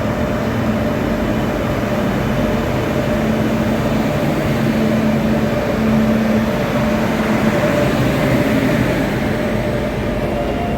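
Express passenger train hauled by an electric locomotive, running past at speed: a loud, steady rush and rumble of wheels on rail, with a low hum that comes and goes in the first half.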